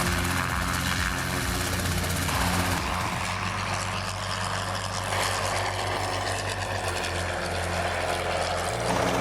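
Small piston-engine helicopter's engine and rotor running steadily; the sound changes character about two and a half seconds in and again near the end.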